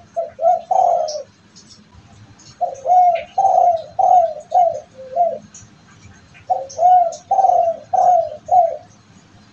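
Derkuku (spotted dove) cooing: three phrases of low, rounded coo notes. The first is short, about three notes ending in a longer one; the second, a second and a half later, runs to about six notes; the third, near the end, has about five. Faint high chirps of other small birds sound in between.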